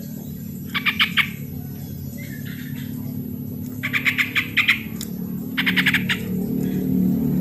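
Yellow-vented bulbul (trucukan) calling in short, rapid chattering phrases, four of them, about a second and a half apart. A low steady rumble runs underneath and grows louder near the end.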